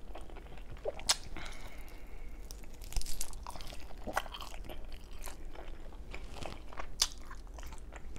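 A person chewing a mouthful of roast chicken with the mouth closed, with soft wet smacks and scattered sharp mouth clicks, the sharpest about a second in and near seven seconds.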